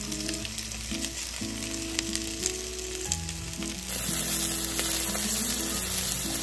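Chicken pieces frying in oil in a nonstick pan: a steady sizzle that grows louder about four seconds in, with a few light clicks from the stirring, over soft background music.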